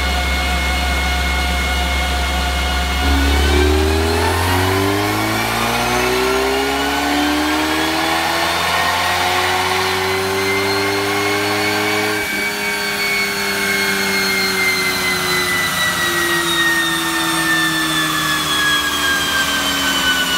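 Roush-tuned 2016 Ford Mustang EcoBoost's turbocharged 2.3-litre four-cylinder on a chassis dyno, making a wide-open-throttle run. It runs steadily low for about three seconds, then the revs climb for about nine seconds, cut off suddenly, and fall away slowly as the engine and rollers wind down.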